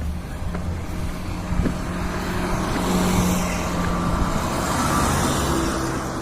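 A motor vehicle driving past on the street, its engine and tyre noise swelling to a peak about halfway through and fading toward the end.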